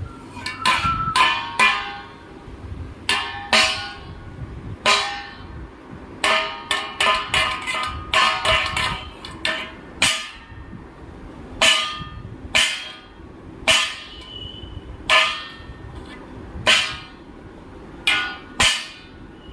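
A baby making noise: a run of short, loud, ringing bursts that come in quick clusters at first and then about once a second.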